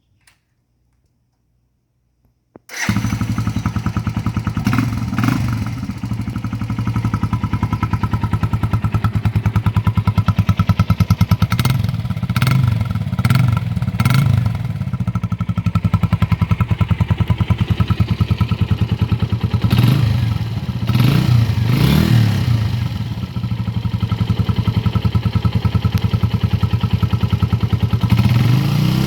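Suzuki Volty 250's single-cylinder four-stroke engine starting up about three seconds in, then idling with fast even firing pulses and a few short revs of the throttle.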